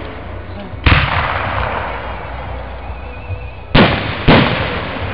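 Aerial firework shells bursting overhead: three sharp booms, one about a second in and two about half a second apart near the end, each trailing off in a long decaying echo.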